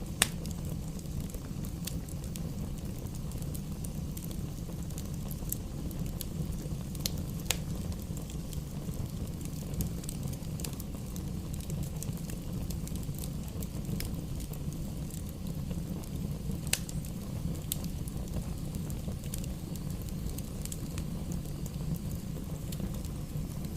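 Wood fire burning in a fireplace: a steady low rumble with scattered sharp crackles and pops of burning logs, the loudest pop right at the start.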